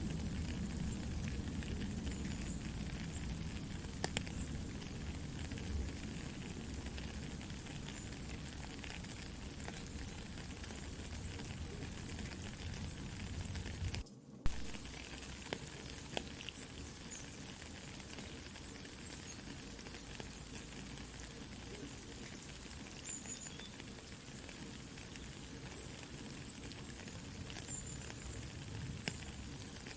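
Soft rain falling steadily, mixed with a campfire crackling and popping. The sound cuts out briefly about halfway through, followed by a sharp pop.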